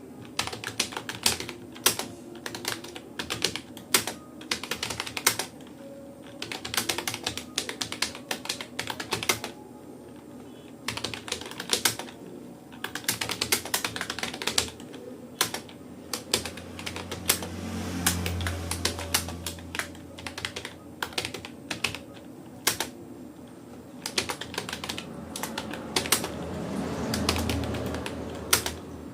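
Typing on a Rapoo computer keyboard: irregular runs of key clicks with short pauses between words and phrases. A low hum swells up and fades twice, once about two-thirds of the way in and again near the end.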